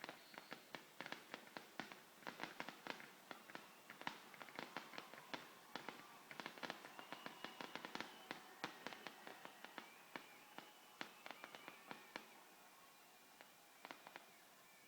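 Fireworks going off: rapid, overlapping sharp pops and crackles, several a second, thinning out about twelve seconds in, with a last short cluster of pops near the end.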